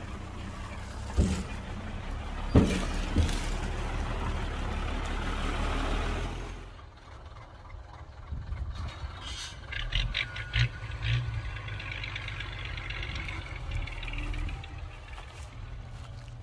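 Heavy diesel earthmoving machinery, dump truck or bulldozer, running loudly with a few sharp metal clanks. About seven seconds in, the loud engine noise drops away, leaving a quieter low engine hum with scattered clicks.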